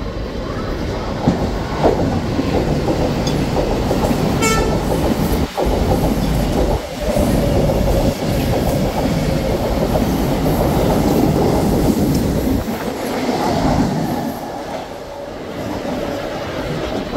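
Train running through the station, loud and steady, with clattering wheels on the rails and a short horn note about four and a half seconds in.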